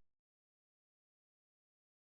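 Silence: the sound track is blank, with no audible sound.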